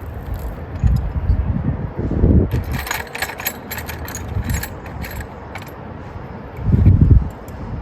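Metallic clicks and clinks of a hand wrench working bolts in a car's engine bay, in a quick run through the middle. Low rumbling bumps come about a second in and again near the end, the loudest near the end.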